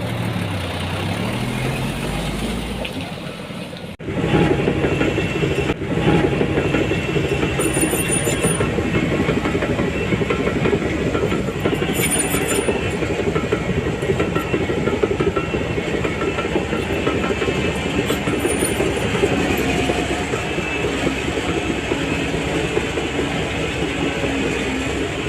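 Heavy diesel machinery working, most likely a Shantui DH17C3 crawler bulldozer, with steady metallic clanking typical of steel crawler tracks. For the first four seconds an engine's pitch dips and then rises; the sound then switches abruptly to louder, continuous working noise.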